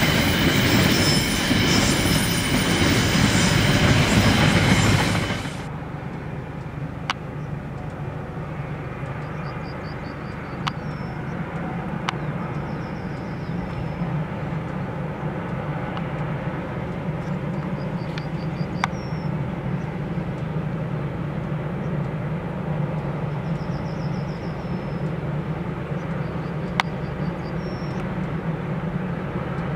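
Container freight wagons rolling past close by, wheels clattering on the rails, cut off suddenly about five seconds in. Then a distant long freight train gives a steady low hum, while a bird calls in short trills every few seconds.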